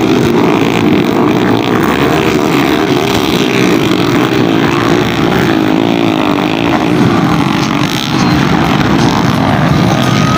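Small underbone motorcycle engines running hard in a motocross race, several engines overlapping with pitches that waver up and down as the riders rev and shift.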